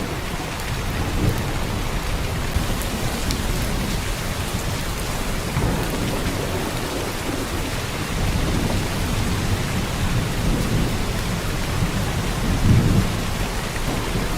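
Heavy rain pouring steadily, a dense even hiss, with a low rumble underneath that swells briefly near the end.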